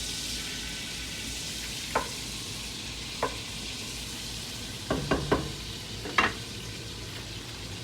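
Butter melting and sizzling in a hot pot, a steady hiss, with a few light knocks about two, three, five and six seconds in.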